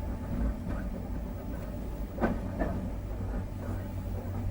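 Merseyrail Class 508 third-rail electric train running along the track, a steady low rumble heard from inside the driver's cab. A single sharp knock comes about two seconds in.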